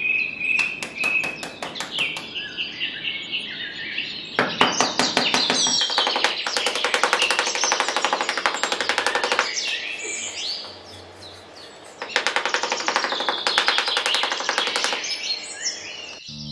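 Birds chirping and singing, with repeated fast trills and high chirps; the song eases off briefly about ten seconds in, then resumes.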